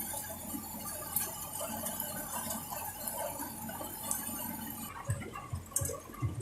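Heavy rain falling, a steady hiss. About five seconds in the hiss thins and a run of irregular low thuds begins.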